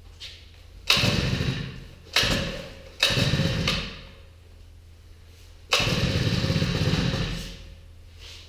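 Small four-stroke engine being pull-started: four sharp pulls of the recoil starter, each spinning the engine over briefly before it dies away, without the engine staying running.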